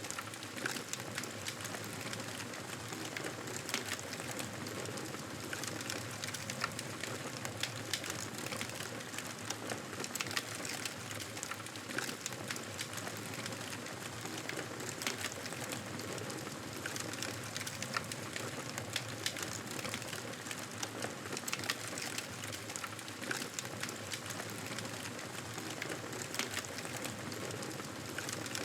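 Campfire crackling, with frequent sharp, irregular snaps and pops of burning wood over a steady hiss.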